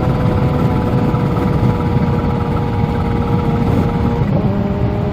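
Kawasaki Z H2's supercharged inline-four running steadily at cruise, with heavy wind noise on the microphone. About four seconds in its note drops and settles at a new pitch.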